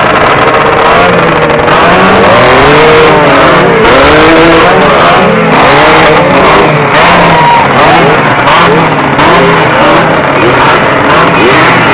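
Several two-stroke motorcycle engines revving at once, throttles blipped over and over so the pitches rise and fall in overlapping swoops over a steady low running note.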